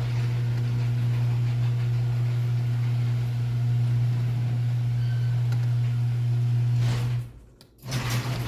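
Garage door opener motor running with a steady low hum as the door moves. The hum cuts out abruptly about seven seconds in and resumes a moment later.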